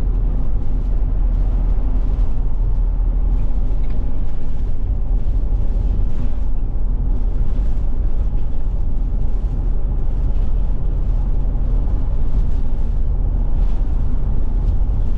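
Class C motorhome's drivetrain and road noise heard inside the cab while cruising steadily at about 45 mph: a continuous low rumble with no change in pitch.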